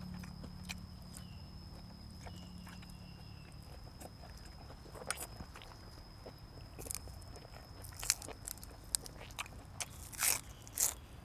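Close-miked chewing of food, with scattered small crunches and a few louder crunching bites near the end.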